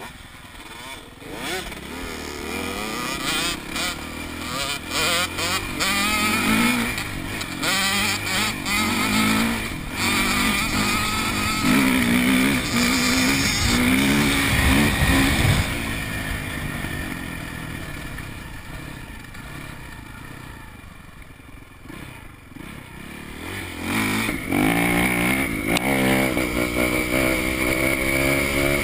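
Four-stroke dirt bike engines revving through the gears as the bikes ride by. They grow loud through the first half, fade away, then a bike comes close again with rising revs near the end.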